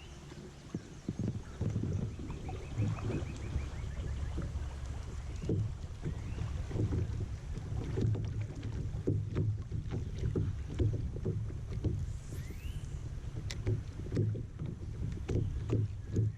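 A kayak being paddled: a steady run of paddle strokes and light knocks in the water, over a low rumble.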